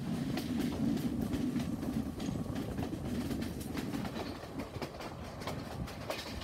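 Passenger train running along the track, heard from the carriage at an open door or window: a steady rumble of the wheels with irregular clicks and clatter, a little louder in the first half.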